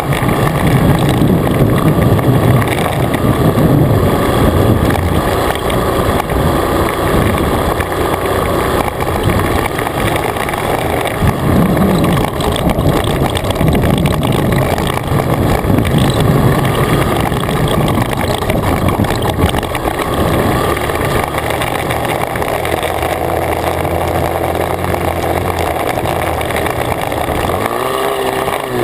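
Dirt bike engine running, its pitch rising and falling near the end.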